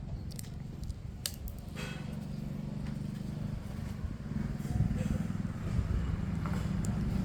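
Wind buffeting the microphone: a low rumble that grows stronger about halfway through, with a few faint clicks.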